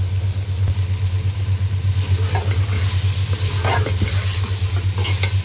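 Radish pods sizzling in masala in a metal pot. From about two seconds in, a steel ladle scrapes and stirs them several times. A steady low hum runs under it all and is the loudest sound.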